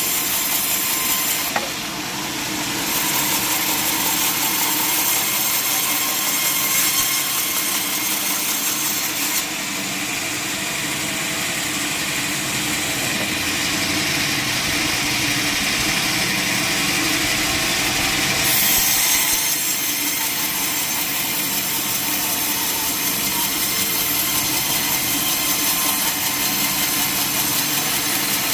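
Sawmill saw cutting lengthwise through a log, a steady loud sawing noise that briefly dips near the start and grows brighter in the middle.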